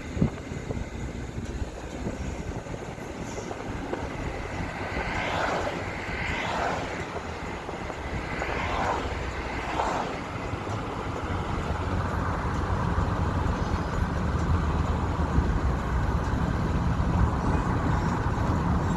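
Steady low rumble of vehicle noise, slowly growing louder, with four brief rising-and-falling swells in the first half.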